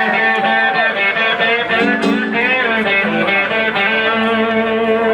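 Live rock band playing instrumentally, led by electric guitar with bent, gliding notes over a steady bass line.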